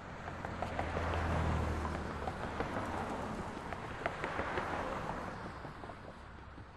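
A vehicle passing on a city street: engine rumble and tyre noise swell about a second in, then fade away near the end, with scattered small clicks along the way.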